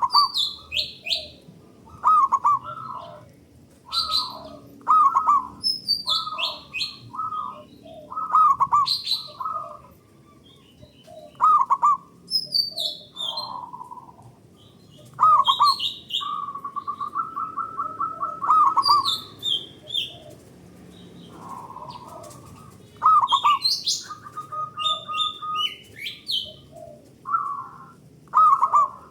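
Zebra doves (perkutut) cooing in repeated short, rapid trilling phrases, with calls answering one another and higher chirping notes in between.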